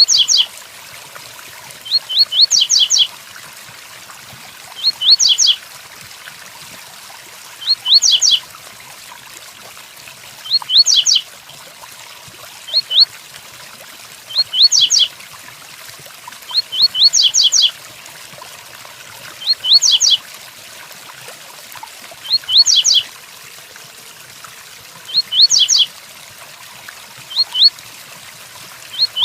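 Double-collared seedeater (coleiro) singing its 'tui-tuí' song type, repeating one short high phrase about every two and a half to three seconds: a few quick rising notes, then a tight cluster of sharper notes. A steady rain sound runs beneath it.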